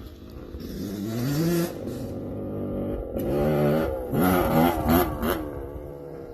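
Motorcycle engine revving in short blips, the pitch rising about a second in and rising and falling several times near the end.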